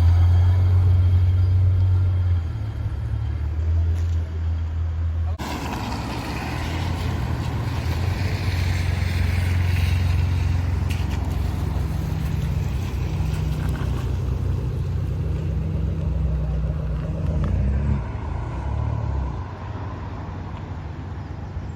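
Car engine running with a steady low hum; the sound changes abruptly about five seconds in, and near the end the engine note briefly rises, then falls away.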